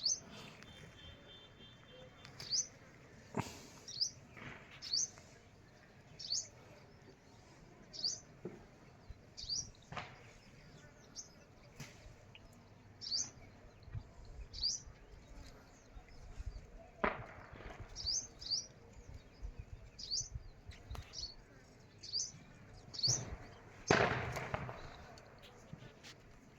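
A bird chirping: single short, high chirps that slide downward, repeated about once a second. A few sharp knocks come in between, and a louder rustling burst comes near the end.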